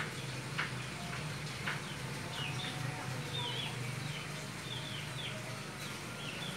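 Small birds chirping, a scattered string of short, quick calls, over a steady low hum; two sharp ticks within the first two seconds.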